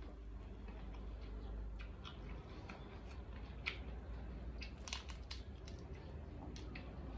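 Eating sounds: scattered small clicks and wet mouth noises of someone chewing a spicy instant-noodle seafood salad, with a few sharper clicks near the middle.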